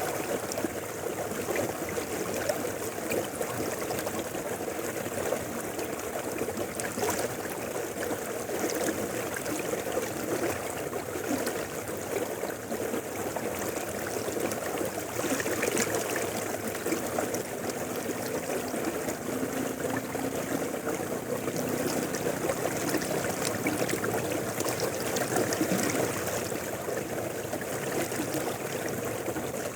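Mountain river flowing steadily.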